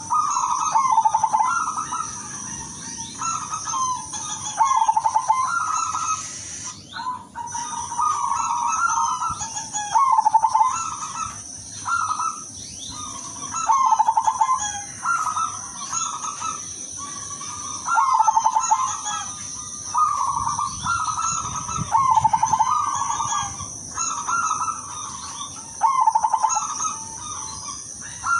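Silver zebra dove (perkutut) singing its cooing song: stuttering, trilled coo phrases repeated about every two seconds. A steady high-pitched whine runs behind it and drops out briefly about seven seconds in.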